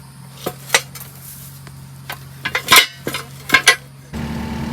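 Irregular sharp metallic clinks and knocks of metal parts and tools being handled, loudest in a quick cluster around the middle. Near the end a steady engine idle cuts in abruptly.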